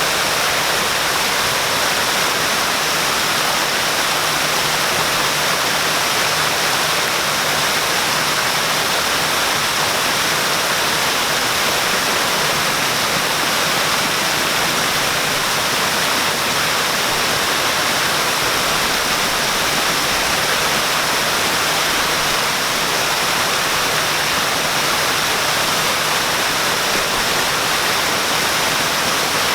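Waterfall: water falling and splashing in a steady, even rush of noise.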